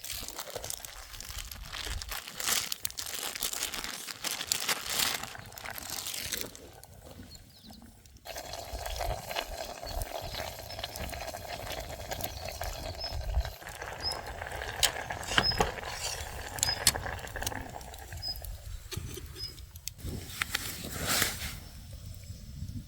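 Irregular rustling and crinkling handling noises, broken by scattered sharp clicks and knocks, with a brief lull a few seconds in.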